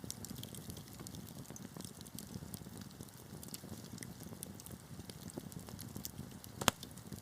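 Wood fire burning in a fireplace: a steady low rumble of flames with frequent small crackles, and one loud sharp pop near the end.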